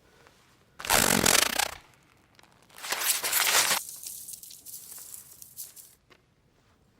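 A Howler letter ripping itself to shreds: two loud bursts of paper tearing, about a second in and about three seconds in, then fainter rustling and crackling that dies out near the end.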